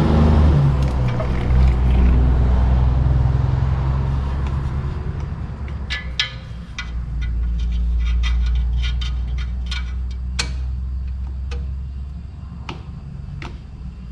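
A steady low mechanical hum runs throughout. From about halfway in, sharp irregular metallic clinks of wrench and socket on steel come in while the torque converter bolts are being worked in.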